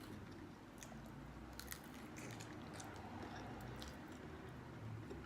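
Faint chewing of food close to the microphone, with scattered small mouth clicks.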